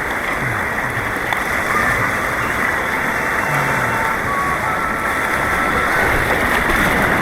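Steady rush of churning white water on an artificial white-water course, close around the kayak.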